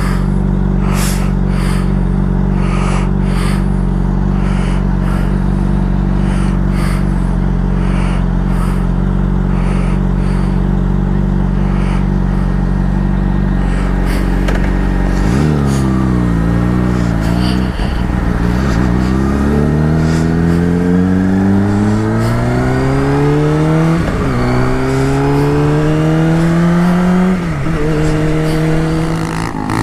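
Motorcycle engine holding steady revs, then from about halfway through accelerating hard: the pitch climbs three times, each climb cut by a quick drop as the rider shifts up a gear.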